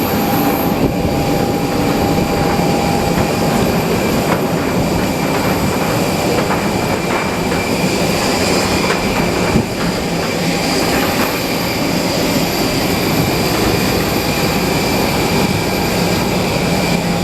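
Airbus A320 cabin noise while taxiing: a steady engine whine at idle over a low rumble, with a few faint knocks from the wheels rolling over the pavement.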